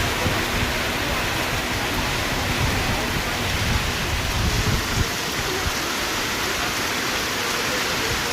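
Rain falling steadily in a dense, even hiss. A low rumble underneath stops abruptly about five seconds in.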